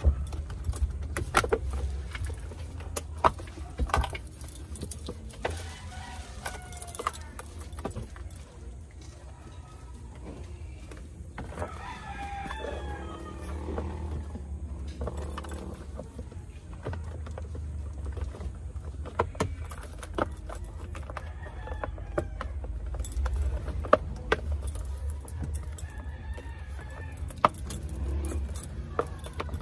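Irregular clicks, knocks and light rattling as the cover over a Nissan Urvan's ignition switch is hooked back on and fastened by hand, with a jingle like keys.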